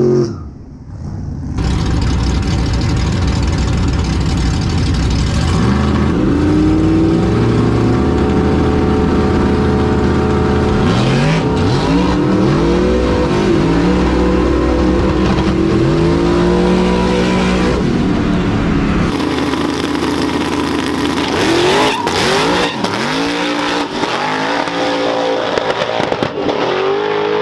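Turbocharged race truck engine revving hard, its pitch climbing again and again in repeated rising sweeps. There is a brief drop in level about a second in.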